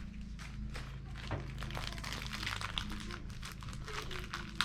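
Faint rustling and small clicks of the new bulbs' stapled packaging being handled and opened, over a steady low hum.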